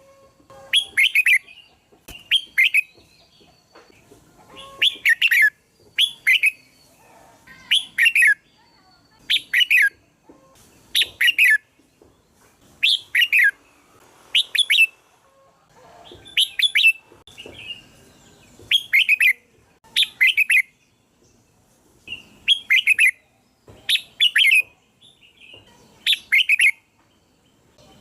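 Red-whiskered bulbul singing: short, bright phrases, often in pairs, repeated every second or two.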